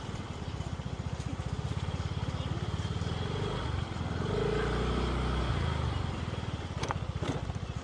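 Motorcycle engine running at low speed as it rolls in, with an even, fast throb that deepens for a moment about halfway through. Two sharp clicks near the end.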